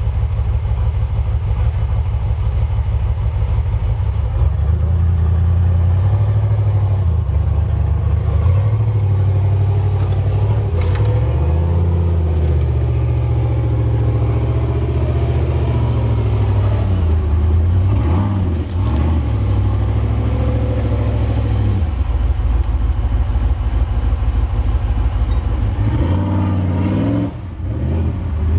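Toyota FJ45 4x4's engine revving hard, its pitch rising and falling repeatedly as it is worked on and off the throttle.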